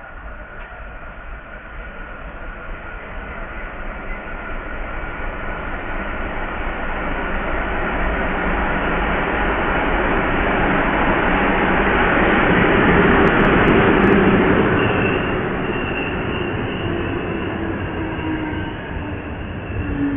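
Diesel locomotive hauling double-deck passenger coaches into a station, its engine and wheels growing steadily louder as it approaches and passes about two-thirds of the way in. The coaches then roll past more quietly, with thin high brake and wheel squeals as the train slows.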